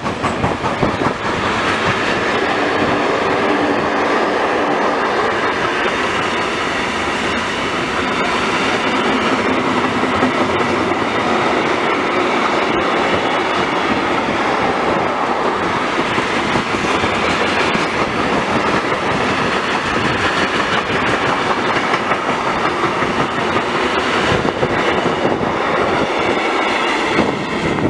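A long train passing close by, its wheels clattering steadily over the rails.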